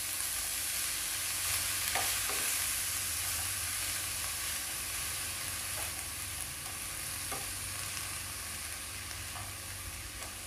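Chopped broccoli frying in oil in a nonstick pan, with a steady sizzle, while a plastic slotted spatula stirs it, giving a few soft scrapes against the pan.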